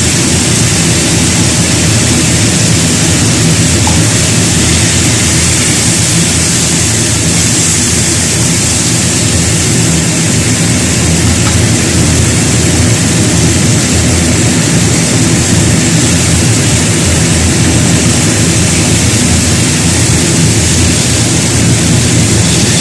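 A loud, steady rushing noise with a low hum underneath, unbroken throughout, like a motor or burner running.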